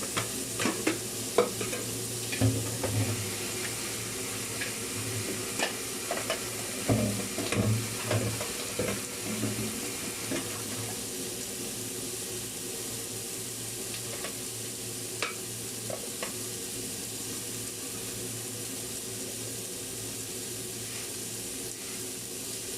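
Chicken pieces sizzling as they brown in hot oil with ginger, onion and garlic, a steady hiss. A utensil stirs and knocks against the pot, most often in the first ten seconds, with a few more knocks later.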